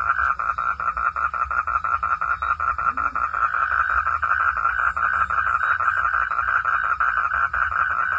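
Frog calling in a continuous, rapidly pulsed trill, about eight pulses a second.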